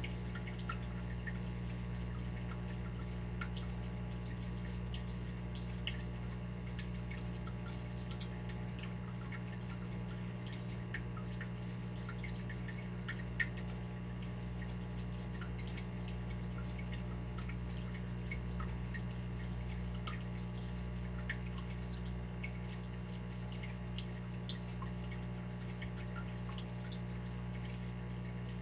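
Water dripping: many small, irregular drops over a steady low hum, with one sharper drop about halfway through.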